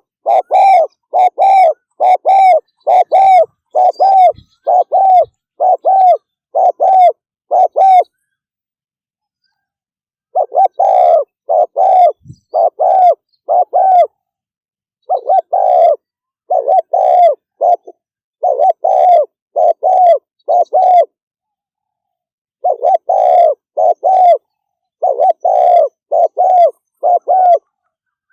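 Spotted dove (cu gáy) doing fast cooing (thúc gù): short, loud coos repeated about one and a half times a second. They come in runs of several seconds, broken by brief silent pauses.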